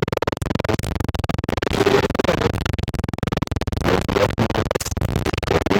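Loud television static: a dense, rapid crackle and hiss, with brief pitched fragments breaking through now and then.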